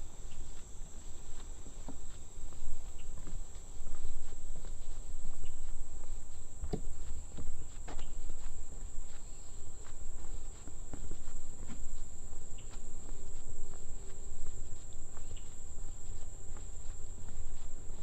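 Steady high-pitched insect chorus with footsteps on a trail.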